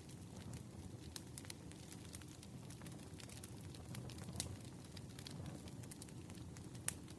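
Wood fire crackling: a low, soft rumble of burning logs with frequent small irregular pops and snaps, and one sharper pop near the end.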